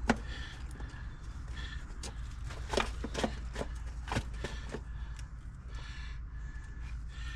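Plastic drain gully and square-top adapter being handled and knocked into place: a sharp knock at the very start, then a cluster of clicks and taps about three to five seconds in, over a steady low rumble.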